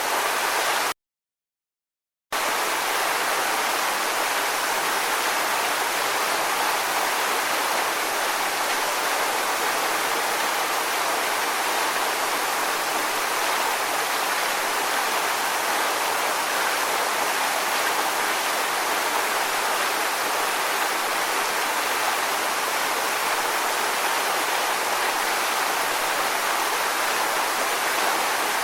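Steady, unbroken rushing water noise like a waterfall or fast stream, with no surge or rhythm. It cuts out to silence about a second in and returns about a second and a half later.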